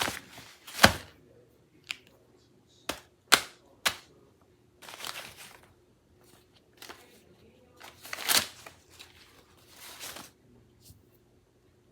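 A paper craft laptop being handled roughly: several sharp taps and knocks, then a few short crackling, rustling bursts of paper being crumpled or torn.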